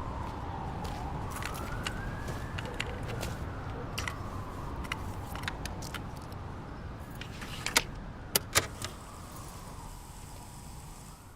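Emergency-vehicle siren wailing slowly up and down over a low, steady traffic rumble, with scattered sharp clicks and a few louder ones about eight seconds in.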